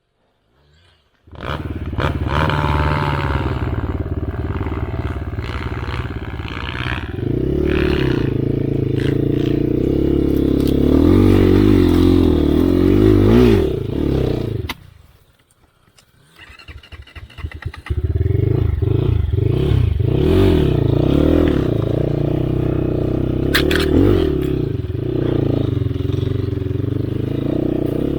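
Enduro dirt bike engine revving hard, its pitch rising and falling again and again as the bike scrabbles for traction. The engine sound drops away for a couple of seconds about halfway through, then picks up again.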